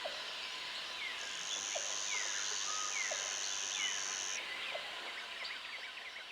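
Outdoor country ambience of many birds chirping and calling, with repeated short falling notes over a background chorus. A high steady buzz starts about a second in and stops just past the middle. The whole scene fades down near the end.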